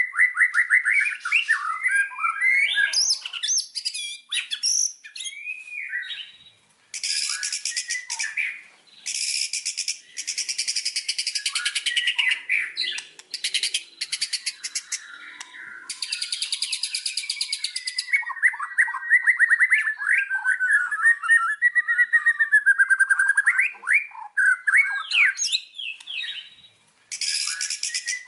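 White-rumped shama (murai batu) singing: fast, varied whistled phrases that slide up and down, broken several times by stretches of harsh, rapid buzzing trills a second or more long.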